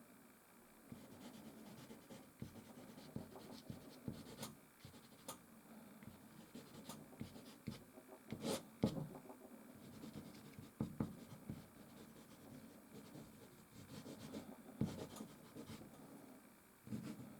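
Soft pastel stick scratching and rubbing across canvas in irregular strokes, with sharper ticks scattered through; the loudest stroke comes about halfway.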